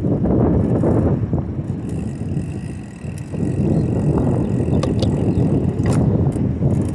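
Bicycle riding at speed: wind buffeting the microphone over the rumble of the tyres on pavement, easing briefly about three seconds in, with a couple of sharp clicks near the end.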